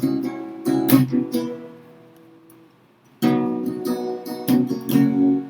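Acoustic guitar strumming chords in an instrumental break between sung verses of a folk ballad. A few strokes open it, one chord rings and dies away over about two seconds, then the strumming picks up again about three seconds in.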